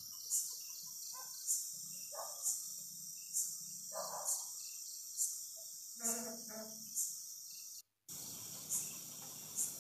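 Night insects, a cricket chirping high and short about once a second, with faint distant sounds beneath. The audio cuts out briefly about eight seconds in.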